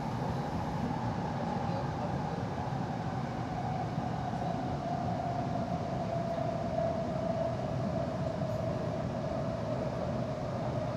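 Busan Metro Line 3 train running, heard from inside the car: a steady rumble of wheels on rail with a single motor whine that slowly falls in pitch as the train slows.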